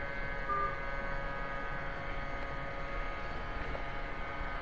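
Steady electrical hum with several faint, unchanging tones, and a brief faint tone about half a second in.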